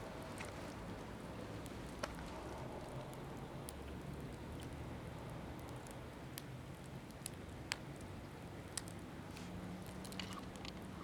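Wood fire burning in a steel fire pit, giving off sharp pops and crackles every second or two over a steady low rush; the wood is mostly green gathered wood.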